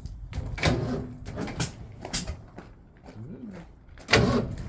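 1965 Ford Mustang engine being cranked and sputtering in irregular bursts as it struggles to run, with a louder burst about four seconds in.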